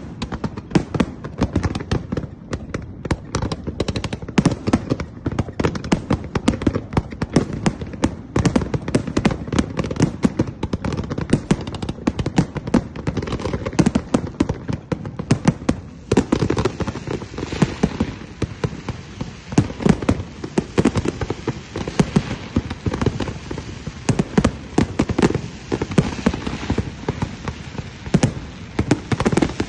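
Fireworks going off: a continuous, dense crackle of many sharp bangs and pops, several a second, growing thicker about halfway through.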